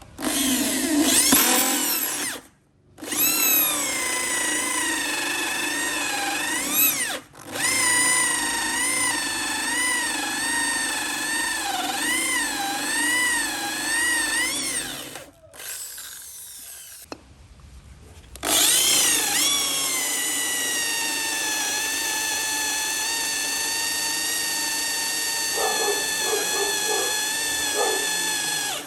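Handheld electric power tool working wood in several runs, its motor whine wavering in pitch as it bears into the wood. It spins up, cuts out briefly twice, stops for about three seconds past the middle, then spins up again and runs steadily.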